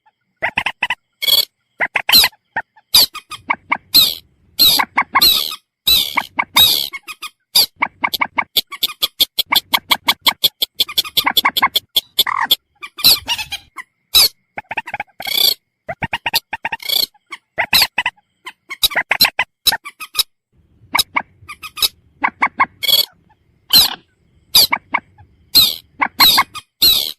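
Recorded common moorhen (mandar batu) calls: a long series of short, sharp calls in irregular groups. About nine to twelve seconds in comes a fast, rattling run of notes.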